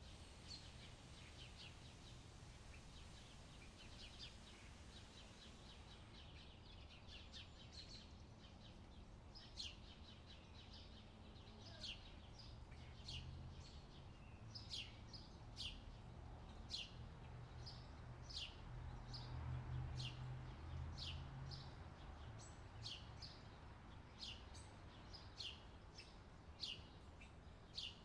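Faint outdoor ambience with a small bird chirping over and over, short falling chirps about once a second from about a third of the way in. Under it runs a low rumble that swells a little past the middle.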